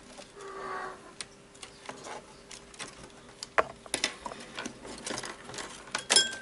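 Scattered small clicks and taps of parts and tools being handled while a small radio-controlled helicopter is taken apart, over a faint steady hum. A short pitched sound comes about half a second in.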